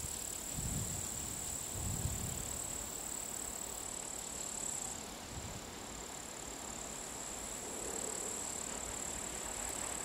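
Steady high insect chirring over a faint low rumble of an EP20 electric locomotive and its passenger train approaching in the distance, with a few low gusts of wind on the microphone. The train noise grows slightly in the last couple of seconds.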